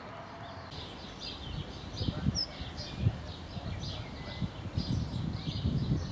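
Small birds singing and chirping in the surrounding trees, high, quick repeated notes. From about a second and a half in, irregular low bumps rise and fall underneath and give the loudest moments.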